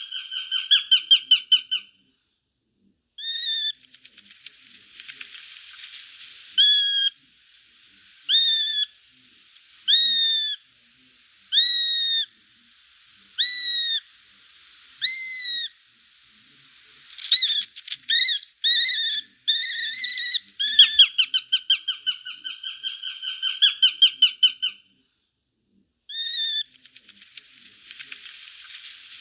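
A bird singing: single whistled notes that bend up and then down, repeated about every one and a half seconds, broken by fast trills of quick repeated notes at the start and again around the middle.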